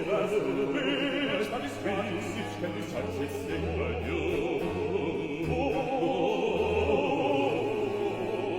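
Baroque duet for two bass voices singing with vibrato over a string and basso continuo accompaniment.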